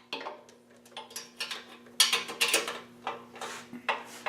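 Metal hand tools and small hardware clinking and clattering in irregular knocks and clicks while a socket extension and screwdriver are worked on a mini bike's chain guard fasteners, busiest about two seconds in.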